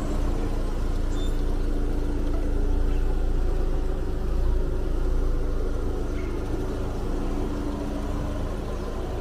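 Car engine running steadily at low speed, a low rumble with a steady hum over it; the car runs on a newly replaced fuel pump assembly.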